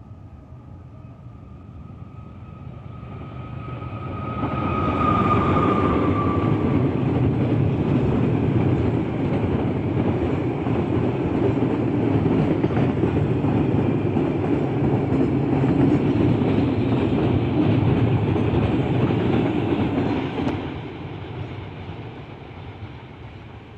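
A train approaching and passing at speed: a rising rumble that stays loud for about sixteen seconds as the cars go by, then fades away. A thin steady high whine is heard through the first several seconds as it approaches.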